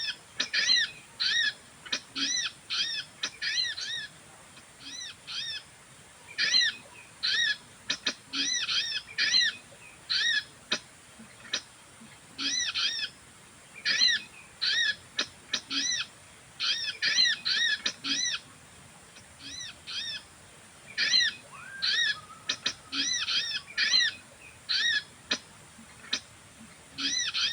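Sogon birds calling: short rise-and-fall chirps, given in quick irregular runs with brief pauses between them, the calls used to lure sogon into the trap.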